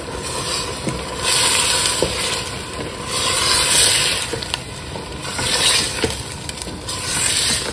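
Lamb pieces and tomato purée sizzling in hot oil in a stainless steel pot while being stirred with a wooden spoon, during the bhuna stage of browning the meat. The sizzle swells and fades about four times as the spoon turns the meat.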